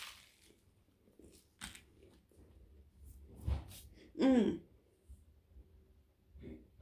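Bite into a toasted turkey sandwich with a crunch at the start, then chewing with small mouth clicks. About four seconds in there is one short, hummed "mmm" of enjoyment whose pitch rises and falls.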